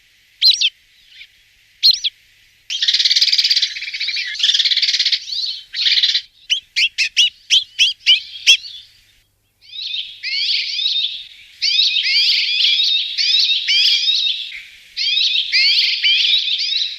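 A songbird singing: a few short sharp calls at first, then bursts of fast chattering and a run of quick separate notes, and from about ten seconds in a long stream of rapid warbling phrases.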